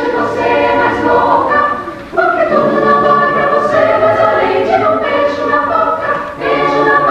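Mixed choir singing a cappella in several parts, held notes in phrases, with a short break about two seconds in before the next phrase.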